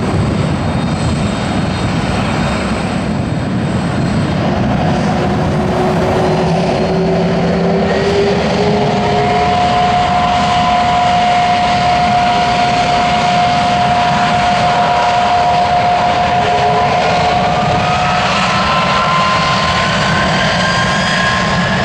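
Airbus A310-304's GE CF6-80C2 turbofan engines running loudly and steadily, with whining tones over the roar. Over the last few seconds one whine climbs in pitch.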